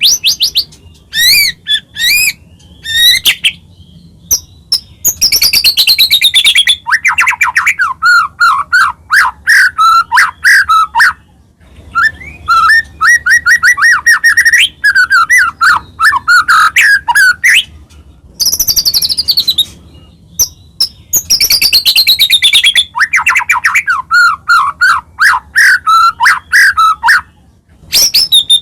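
White-rumped shama (murai batu) singing a loud, varied song in bursts with short pauses: quick falling whistles alternating with rapid repeated notes and trills.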